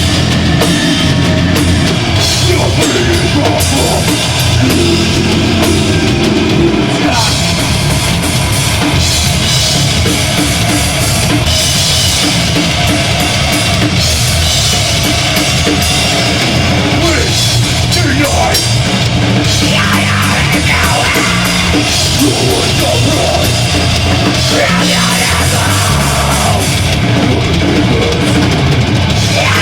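Deathgrind band playing live: a pounding drum kit under loud, dense heavy-metal music, going without a break.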